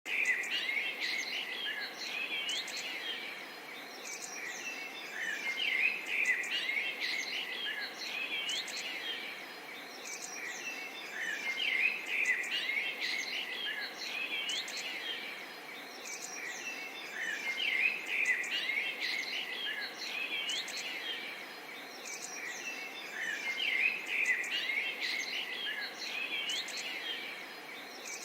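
Small songbirds chirping and twittering over a steady murmur of gently flowing water. The bird chorus swells about every six seconds.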